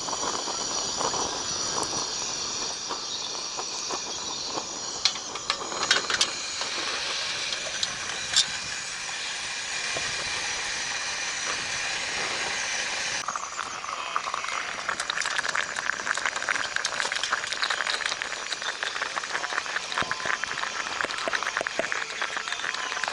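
Campfire burning with a steady hiss and fine crackling; about thirteen seconds in the sound changes abruptly and the crackle becomes denser.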